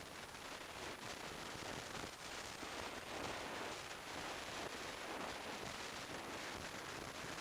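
Steady rush of wind and road noise on the microphone of a camera on a motorcycle riding at speed, with no clear engine note.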